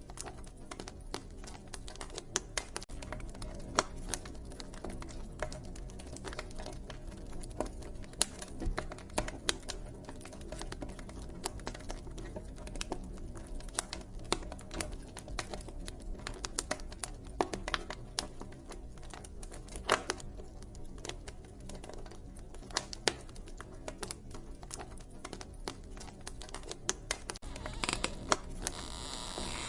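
Wood fire crackling, with irregular sharp pops and snaps over a low, steady wind rumble. Near the end a brief rustling hiss rises as the burning logs shift.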